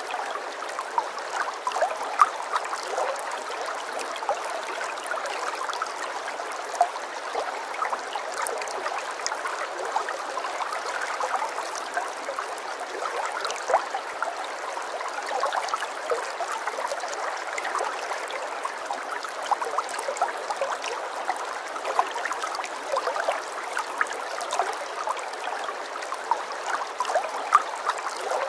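Running water trickling and gurgling steadily, like a small stream, with many small splashes scattered through it.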